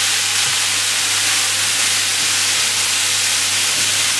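Diced root vegetables sizzling in hot oil in a Firex CBTE030 commercial tilting kettle, a steady frying hiss, over the steady low hum of the kettle's built-in stirrer motor.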